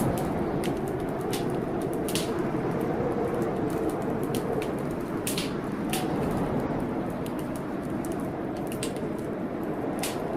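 Wood fire crackling, with sharp irregular pops and snaps, over a steady rush of storm rain.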